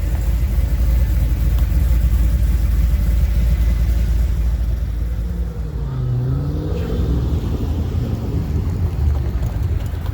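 A car's engine running with a deep, steady rumble as it rolls past, its pitch briefly dipping and rising again a little past halfway.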